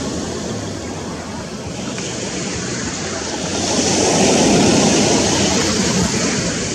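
Ocean surf washing onto a sandy beach, a steady rush that swells louder about halfway through as a wave comes in.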